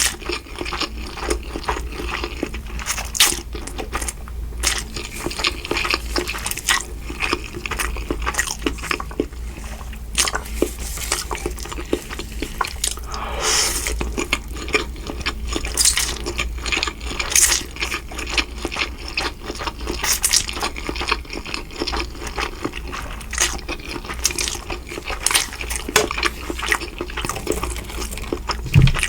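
Close-miked eating of Mi Goreng noodles and fried shrimp: a running series of wet chewing sounds and mouth smacks, with one longer noisy stretch about halfway through.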